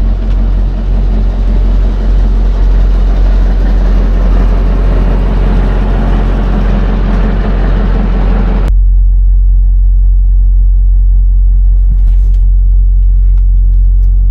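Semi truck's engine running with a steady low rumble and road or air noise over it. About two-thirds of the way through, the higher noise cuts off suddenly, leaving only the low engine hum.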